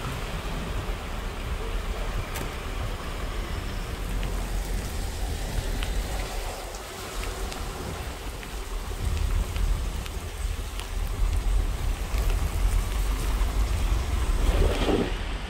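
Steady rain falling on a wet street, with a low rumble underneath.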